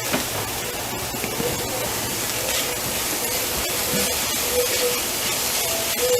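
Onions and garlic sizzling in hot oil in a frying pan: a steady hiss.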